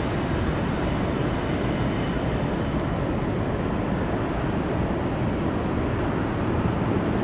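Steady rumble of jet aircraft engines, with no change in pitch.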